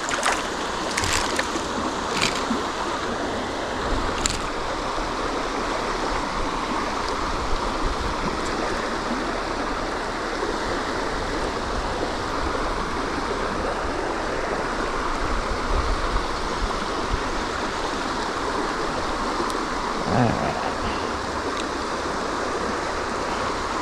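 Creek water flowing steadily, with a few light clicks in the first few seconds and a brief voice-like sound about twenty seconds in.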